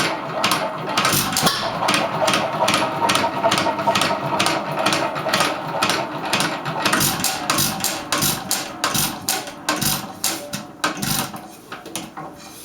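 1.5 hp Hercules hit-and-miss stationary engine running, a steady rhythm of sharp knocks about three a second that grows fainter near the end.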